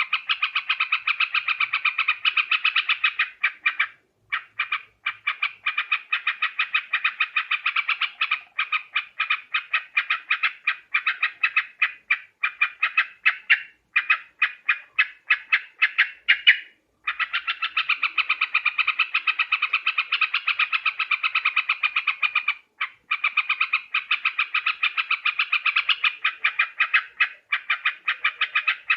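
Yellow-vented bulbul (trucukan) calling: a continuous fast chatter of bubbling notes, several a second, broken by a few brief pauses, played as a bird-trapping lure call.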